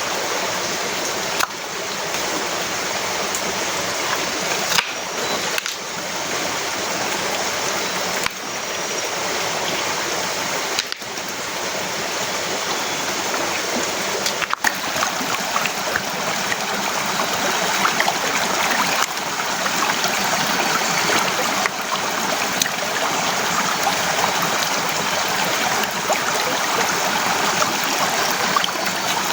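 Heavy rain falling steadily, a dense even hiss sprinkled with fine drop ticks.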